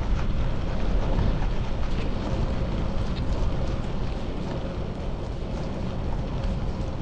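Wind rushing over a chest-mounted GoPro's microphone while riding a bicycle, a steady low rumble with a few light clicks and rattles in the first few seconds.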